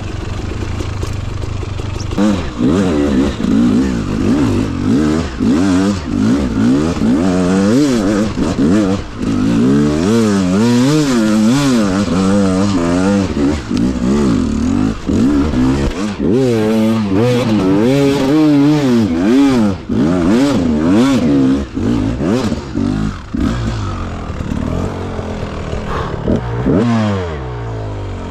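Beta RR300's single-cylinder two-stroke engine, freshly rebuilt and being run in, revving up and down over and over as the bike is ridden, with some knocks and clatter along the way. Near the end the revs fall away and it settles to a lower, steady running note.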